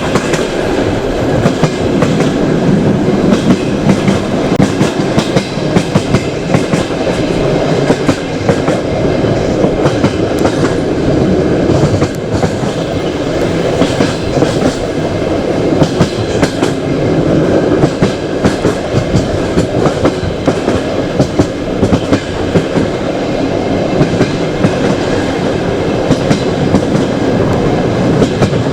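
Passenger train running along the line, its wheels clattering steadily over the rail joints with a continuous rumble of the carriage.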